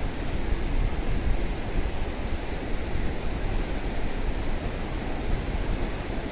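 Steady rush of sea surf breaking on a beach, with a low rumble of wind on the microphone.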